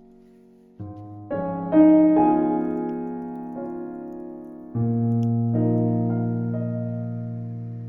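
Background music: slow solo piano, single notes and chords struck and left to ring out and fade.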